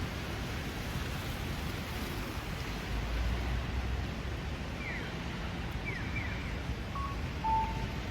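Steady background noise of a large train station concourse, with a low rumble a few seconds in. In the second half there are a few short falling chirps and a couple of brief electronic beeps.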